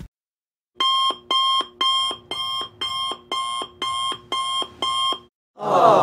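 Electronic alarm clock beeping, about nine beeps at two a second. Near the end a crowd goes "aww".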